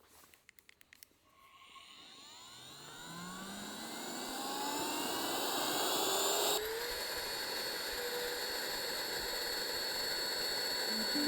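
A small electric motor spinning up: after a few clicks, it whines upward in pitch for several seconds, then shifts abruptly to a steady high whine with a rushing sound.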